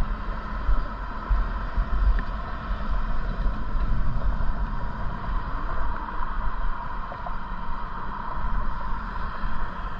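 Wind buffeting the microphone of a camera on a moving bicycle, gusting unevenly over a steady rolling hiss.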